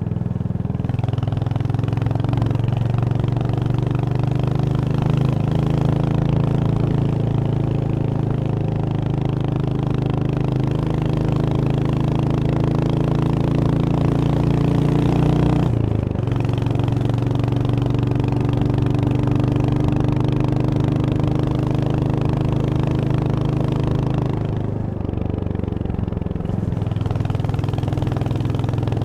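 Royal Enfield Hunter 350's single-cylinder engine pulling under steady throttle, its pitch slowly rising. Halfway through it drops suddenly with a gear change, then pulls again. Near the end the engine briefly goes quieter as the throttle eases, then picks up again.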